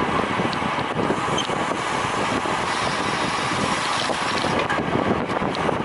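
Steady wind rushing over a moving camera's microphone, with a constant low rumble underneath.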